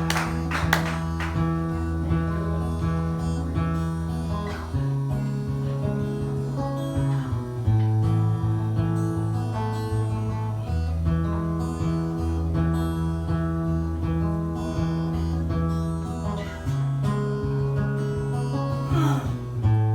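Acoustic guitar strummed in a steady pattern, its chords changing every few seconds: the instrumental introduction to a song played live, just before the singing comes in.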